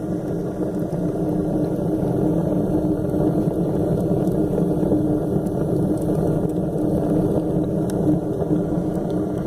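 Ceramic rocket-stove fireplace burning, a steady low roar of the fire drawn hard through the stove, with a constant hum. The strong draft is typical of a rocket stove burning efficiently.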